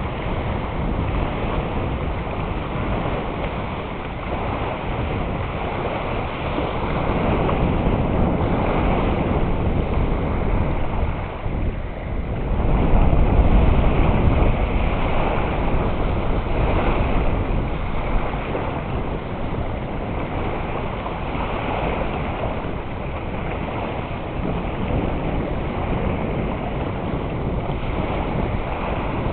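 Strong wind on a reservoir rumbling and buffeting the microphone in gusts, with waves washing on the water. A gust swells loudest about halfway through.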